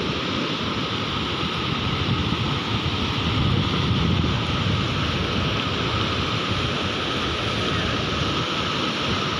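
Sea waves: a steady rush of surf, swelling slightly about four seconds in.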